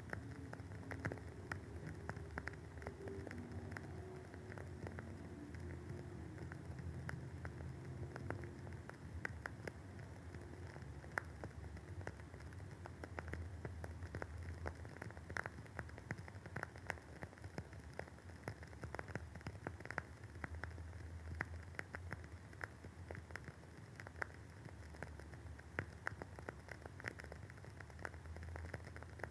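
Wooden wick of a WoodWick candle burning, crackling with a continuous, irregular stream of small pops like light rain, over a faint low hum.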